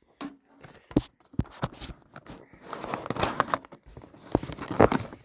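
Crunching and chewing of crispy fried chicken close to the microphone, with irregular crackles and clicks.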